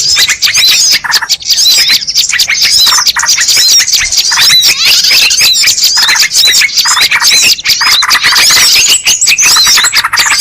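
Bird-lure recording: a loud, dense chatter of many small birds' rapid, overlapping high chirps and squeaky calls, with no pause.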